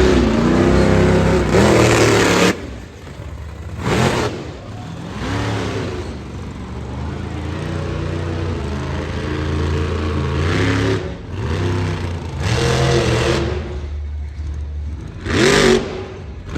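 Monster truck engine revving, loud for the first two and a half seconds, then running lower with short surges of revs about four seconds in and again near the end.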